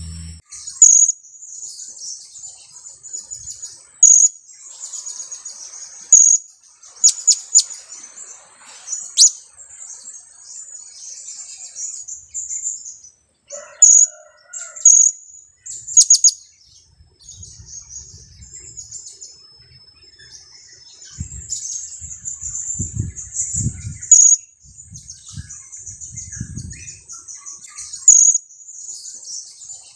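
Blue-crowned hanging parrot (serindit), a young bird, giving high, sharp 'kiak' calls every second or two over a steady high twittering.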